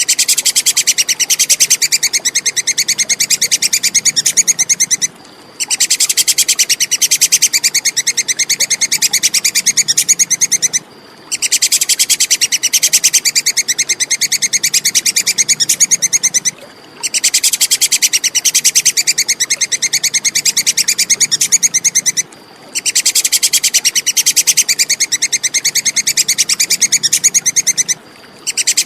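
Tupai kekes squirrel giving a rapid, high-pitched chattering call. It comes in bouts of about five seconds, broken by short pauses, as a repeating training recording for songbirds.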